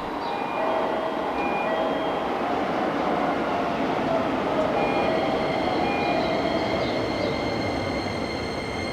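Keisei 3000-series electric train pulling into the station, its wheels rolling and squealing on the rails in short repeated squeals. About five seconds in, a set of high steady tones joins as it slows.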